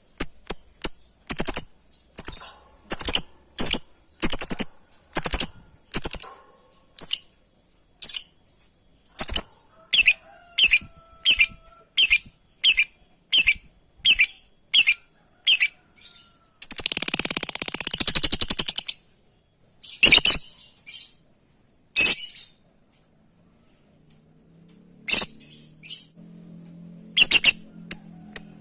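Lovebird giving repeated short, shrill contact calls about every half second. About two-thirds of the way through it breaks into a couple of seconds of rapid chattering, then the calls come more sparsely.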